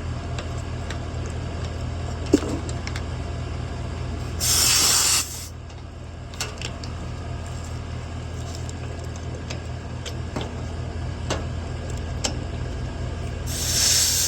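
Two short bursts of refrigerant hissing out, each about a second long and about nine seconds apart, as manifold gauge hoses are connected to an air-conditioning condenser's service ports to read standing pressure. A steady low hum and a few light clicks run underneath.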